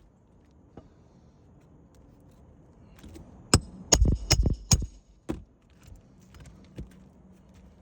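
A hammer striking about five times in quick succession about halfway through, one blow ringing metallically, with a couple of fainter knocks after, typical of nailing during a roof shingle repair.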